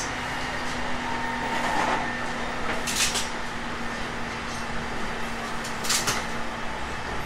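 Inside a JR East E721-500 series electric train: a steady low hum with a sharp clack about three seconds in and another near six seconds.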